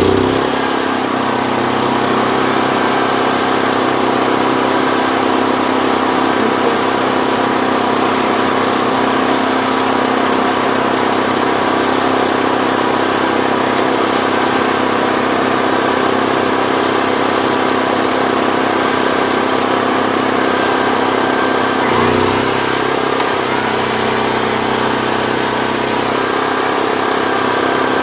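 Portable gasoline generator engine running steadily just after being started, with an even, constant-pitched hum. About 22 seconds in the pitch dips briefly and recovers, as if taking on a load, and a high hiss comes in for a few seconds.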